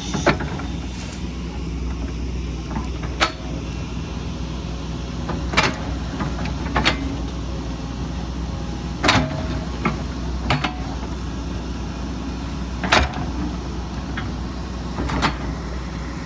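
Excavator's diesel engine running steadily under load, with sharp metallic clanks every one to three seconds from the machine working in rock and earth.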